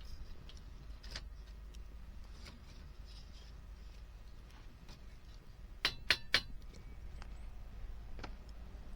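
Wood fire crackling with faint scattered snaps over a steady low rumble, and a quick run of three or four sharp clicks about six seconds in.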